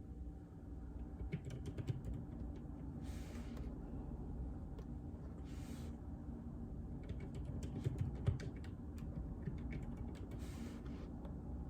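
Typing on a JJK84 mechanical keyboard with Outemu Silent Peach linear switches: soft key presses in bursts, about a second in and again from about seven to nine and a half seconds in, with three brief swishes in between.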